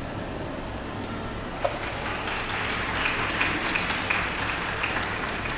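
Audience applauding, the clapping starting about a second and a half in and carrying on steadily.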